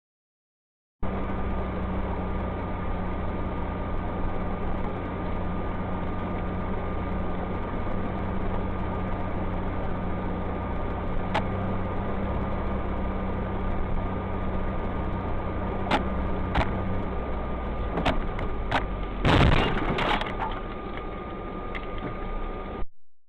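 Car engine and road noise recorded inside a moving car, with a steady hum and a few sharp knocks. About three quarters of the way through comes a loud crunching impact lasting about a second, the sound of a collision.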